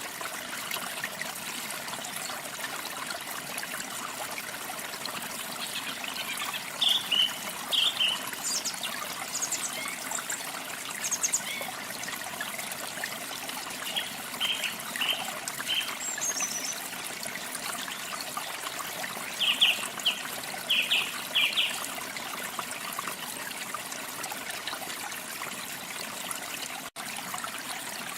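Water trickling steadily, with small songbirds chirping over it in short clusters of quick, high notes several times.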